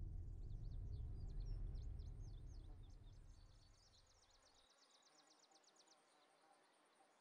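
A faint songbird singing a run of high chirps that turns into a fast trill and stops about six seconds in. Under it, a low drone fades away over the first few seconds.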